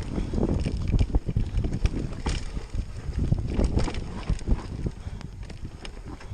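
Wind rumbling on the microphone, mixed with irregular knocks and rattles.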